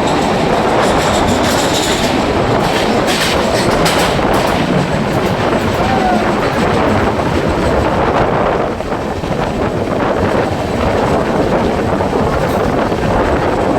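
Andaman Express passenger train running on the track, a loud, steady rumble of wheels on rail with a clickety-clack over the rail joints, with a few sharp clacks in the first few seconds.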